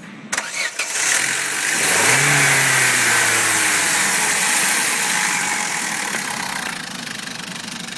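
Vauxhall Corsa Z12XE 1.2-litre 16-valve four-cylinder petrol engine starting: brief cranking, catching about a second in, revs flaring up then easing down to a steady idle.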